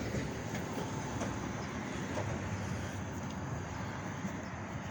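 Steady rumble of road and wind noise from moving along a street, even throughout with no distinct events.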